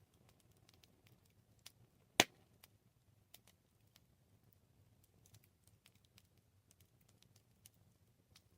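Campfire burning: scattered small crackles and ticks from the burning wood over a faint low rumble, with one loud sharp pop about two seconds in.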